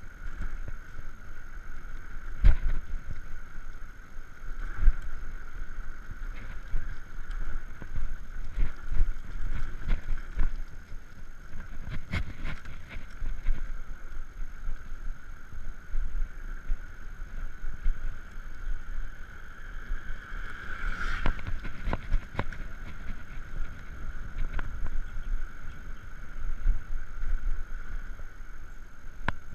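Electric bicycle rolling downhill: steady rumble from the tyres and road with scattered knocks from bumps, and a steady high whine running under it.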